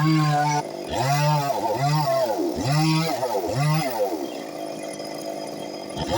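A Stihl two-stroke chainsaw revved in about five quick bursts, its pitch rising and falling with each, then dropping to a lower, steadier run for the last couple of seconds.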